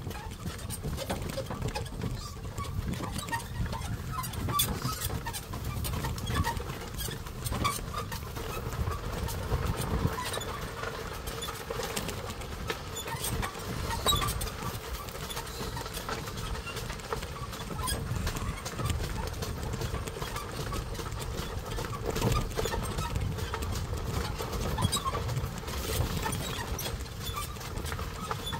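Carabao-drawn cart rolling along a dirt path: a steady low rumble with many small knocks and rattles from the cart and the animal's hooves.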